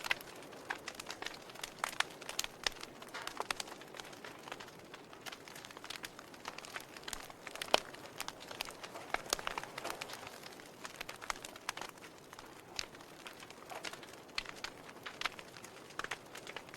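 Log fire in a fireplace crackling: irregular sharp pops and snaps of burning wood over a soft hiss.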